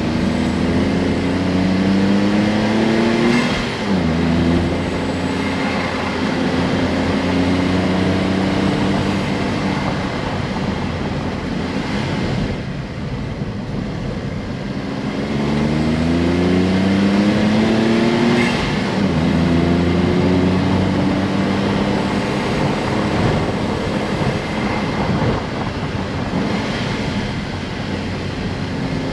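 Honda S660's small turbocharged three-cylinder engine pulling hard, its revs rising, then dropping sharply at an upshift, about three seconds in; after a stretch of steady running the revs climb again from about fifteen seconds and drop at another upshift near nineteen seconds.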